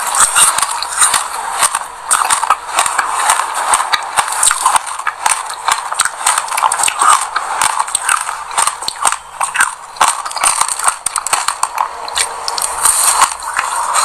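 Close-up chewing and biting of a sesame-seed-coated passion-fruit ice pop: a dense run of crisp crackles and clicks from the seeds crunching in the mouth.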